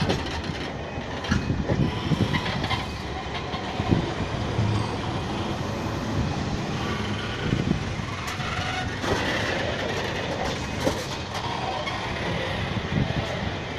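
Train passing over a level crossing: a steady rumble with irregular knocks and clatter from the wheels on the rails.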